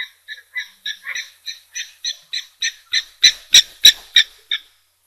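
A bird calling a rhythmic series of short, repeated notes, about three a second, growing louder toward the end before stopping abruptly.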